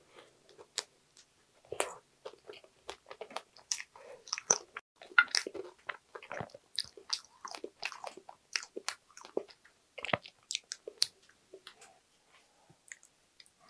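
Close-miked mouth sounds of chewing strawberry rare cheesecake with a crumble topping: irregular wet smacks and light crunches.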